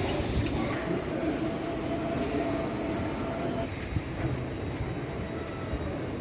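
Train running on the rails with a steady rumble and hiss, and a faint thin whine for a few seconds in the first half.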